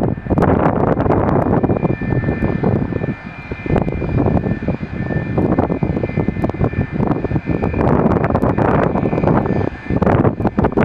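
An airliner's engines running as it passes on takeoff or landing, with a steady high whine over the engine noise for several seconds in the middle. Wind is buffeting the microphone throughout.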